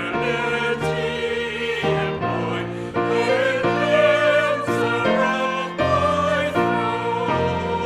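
Hymn music: voices singing together over a keyboard accompaniment, the held chords changing about once a second.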